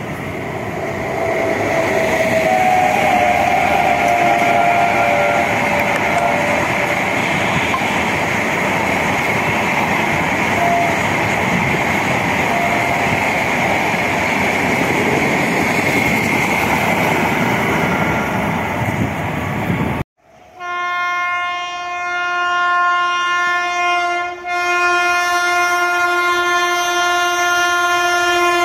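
Indian Railways passenger train running by with a steady rolling rumble and rail noise. About two-thirds of the way in this cuts off and gives way to a long, steady locomotive horn blast that dips briefly once.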